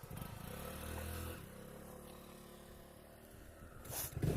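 Motorcycle engine running at idle, quietly, its steady note fading after about a second and a half; near the end a short rush of noise as the engine sound grows louder.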